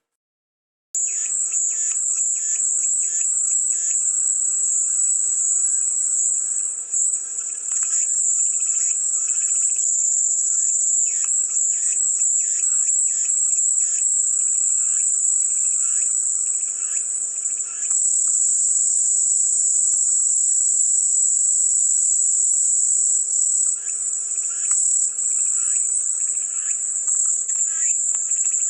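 Chorus of cicadas buzzing as a continuous high-pitched drone, with fainter, irregular chirping underneath. The sound cuts out completely for about the first second, then comes back.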